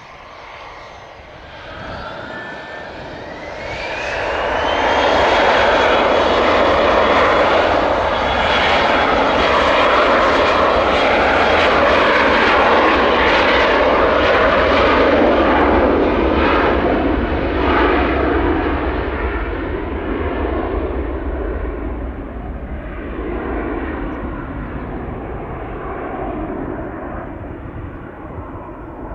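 Jet airliner's engines passing close: a whine rises in pitch and then holds while a loud roar builds, stays steady for about ten seconds, then slowly fades away.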